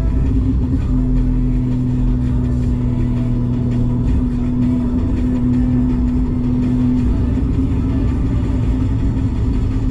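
Porsche 718 GTS 4.0 flat-six running under load through a Kline stainless exhaust with its valves open, holding a steady droning note from about a second in; the steady note breaks off about seven seconds in.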